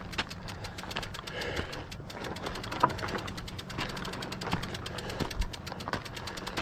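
Rear hub freewheel of an e-bike ticking rapidly and steadily, about eight clicks a second, as the bike is walked uphill with the motor off. A few scuffs and knocks are heard over it.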